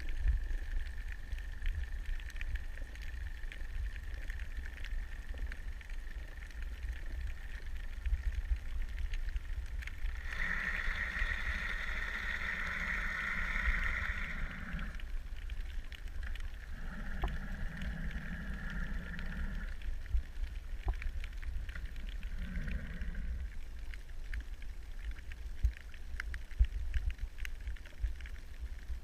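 Underwater ambience picked up by a camera in its housing: a steady low rumble, with a higher droning sound that grows louder for a few seconds twice in the middle and once more briefly.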